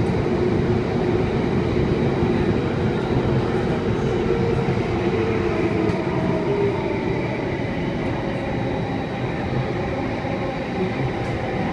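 Alstom Metropolis C830 metro train running between stations, heard from inside the passenger car: a steady rumble of wheels and running gear with a faint hum, easing off slightly near the end.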